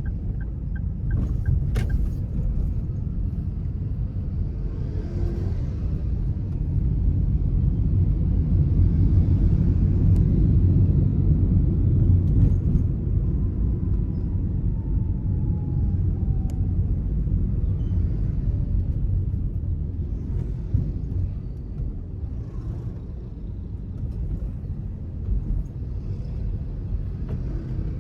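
A car being driven: steady low engine and road rumble that swells a little partway through.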